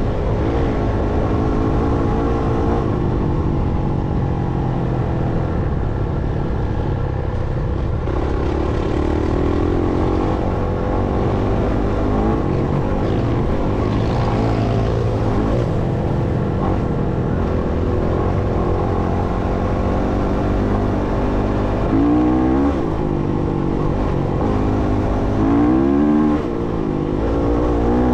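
Dirt bike engine running under changing throttle, its pitch rising and falling, with quick revs about 22 seconds in and again near 26 seconds, over a steady low rumble.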